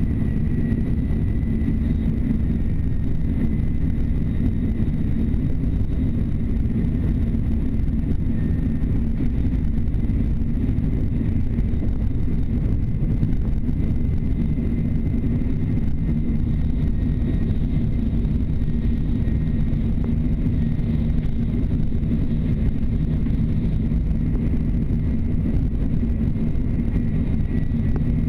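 Steady low rumble heard inside a Shinkansen passenger car running at speed, with a faint, steady high whine above it.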